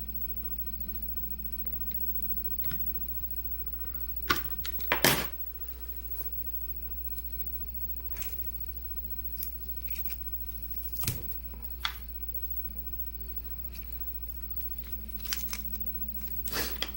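Adhesive tape being pulled and torn, the loudest tear about five seconds in, with a few scattered clicks and rustles of handling over a steady low hum.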